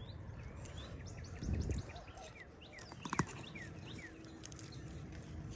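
Small birds chirping, a quick series of short downward-sliding chirps, over outdoor background noise. A low rumble comes about a second and a half in, and a sharp click just after three seconds.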